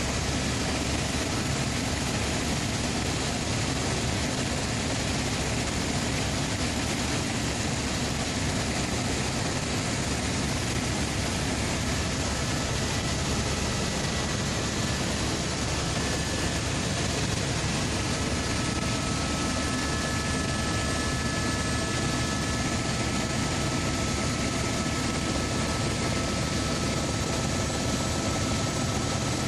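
Helicopter in flight: a steady, unbroken rush of rotor and engine noise, with a faint thin whine growing a little clearer about halfway through.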